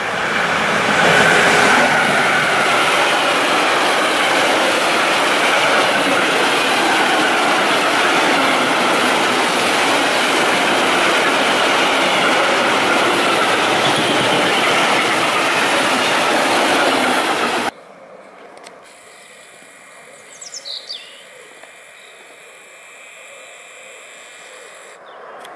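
Electric freight train passing close by: the locomotive followed by a long string of open freight wagons running over the rails, a loud dense rumble with a wavering high whine over it. It cuts off abruptly about 18 seconds in, leaving quiet outdoor air with a few short bird chirps.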